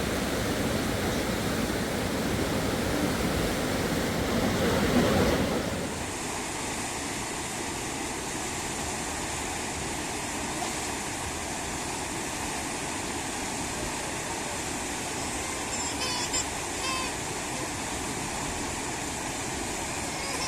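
Rushing river water, a steady roar. About six seconds in it drops abruptly to a quieter, even rush, with a few brief faint high chirps around the middle.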